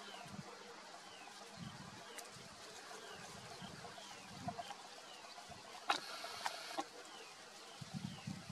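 A bird calling over and over in short falling high notes, about one to two a second, over a faint outdoor background. There is a brief louder scratchy burst about six seconds in.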